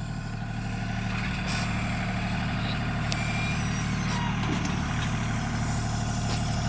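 The engine of a heavy earthmoving machine runs steadily at a low, even hum, growing a little louder after the first second.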